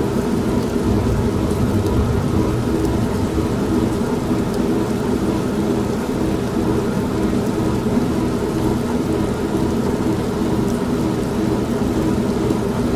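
An old washing machine running with a steady low hum, mixed with continuous steady rain.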